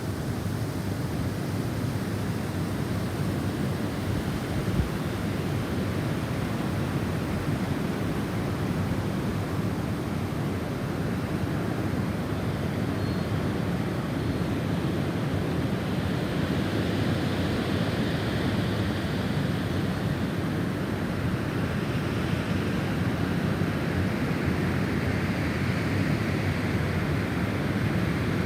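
Snowstorm wind blowing in a steady low rush, with gusts swelling into a higher hiss around the middle and again near the end.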